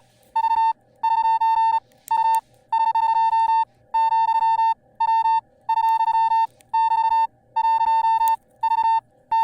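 Morse code sent as an electronic beep tone: one steady mid-pitched note keyed on and off sharply in short dots and longer dashes, with brief silent gaps between them.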